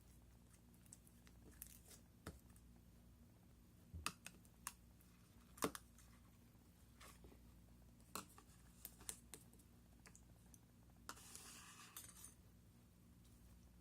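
Slime being handled: faint, scattered sticky clicks and small pops at irregular intervals, with a brief soft rustle about eleven seconds in, over a low steady hum.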